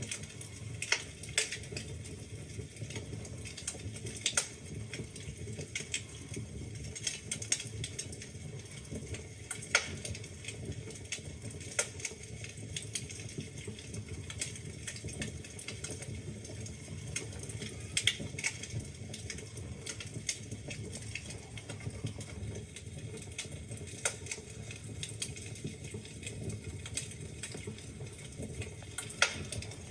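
Wood fire burning in a fireplace: logs crackling and popping with many sharp, irregular snaps over a low, steady rumble of the flames.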